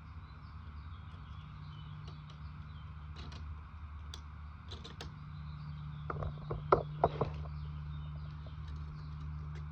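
Light clicks and knocks of small parts and tools being handled during carburetor work, with a quick cluster of louder knocks about six to seven seconds in, over a steady low hum.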